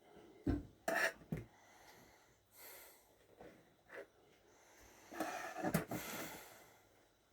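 Knife cutting the crusts off slices of bread on a board: a few sharp knocks in the first second and a half, then a longer stretch of sawing and scraping about five seconds in.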